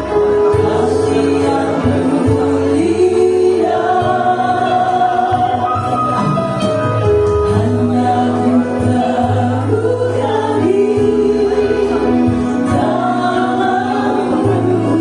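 A mixed choir singing with long held notes that move from chord to chord.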